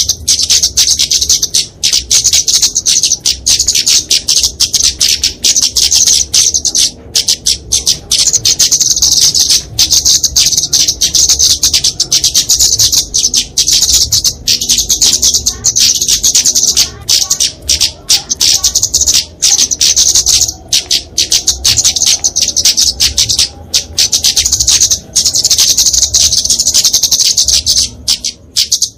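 Flowerpeckers (kemade, genus Dicaeum) giving their aggressive fighting calls: a continuous, very high-pitched, rapid ticking chatter with only brief breaks.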